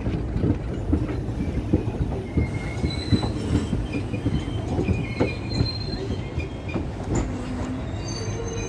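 Passenger train coach running slowly into a station as it brakes: a low rumble with irregular wheel knocks over the rail joints, and short high squeals from about two and a half seconds in.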